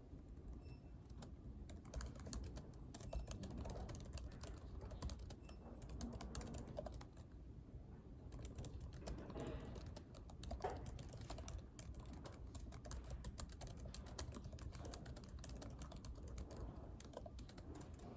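Typing on a laptop keyboard, a quick irregular run of light key clicks over a steady low room hum.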